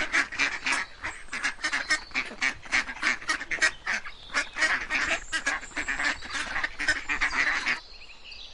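Ducks quacking in a fast, continuous run of short calls, several a second, stopping about a second before the end.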